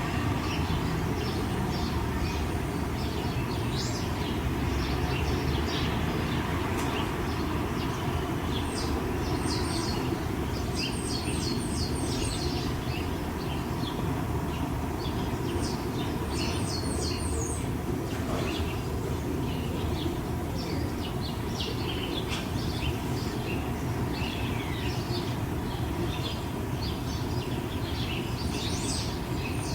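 Small birds chirping, short high calls scattered throughout, with several quick runs of three to five high notes, over a steady low background rumble.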